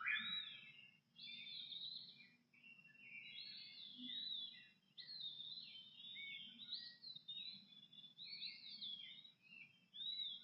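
American robin singing before dawn: a steady run of short, clear whistled phrases rising and falling, with brief gaps between them, over a faint low background hum.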